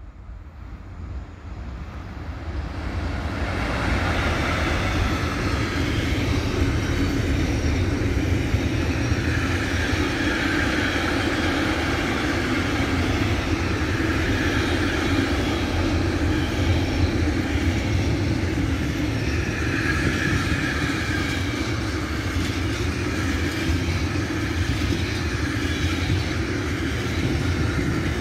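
Freight train approaching and rolling past, its noise building over the first few seconds, then holding steady and loud as the wagons go by.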